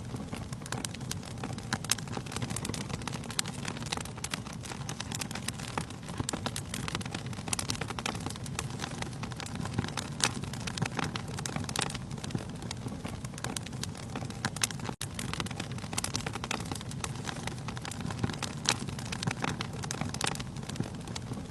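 Wood fire burning in a fireplace: a steady low rumble of flames with frequent sharp crackles and pops from the burning logs. The sound drops out for an instant about two-thirds of the way through.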